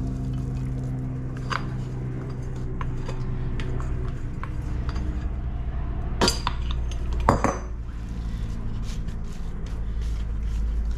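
Scraper scraping crumble mixture out of a mixing bowl, with small clinks and knocks of the utensil against the bowl and dish, two of them louder about six and seven seconds in. A steady low hum runs underneath.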